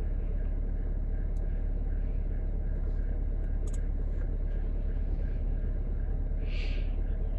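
Steady low rumble, with a few faint clicks and a brief hiss about six and a half seconds in.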